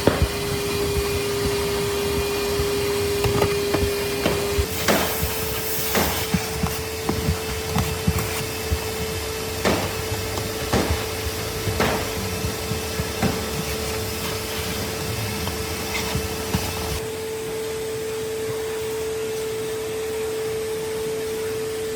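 A small motor whining steadily, its pitch stepping up slightly about five seconds in, with scattered knocks and clicks over it.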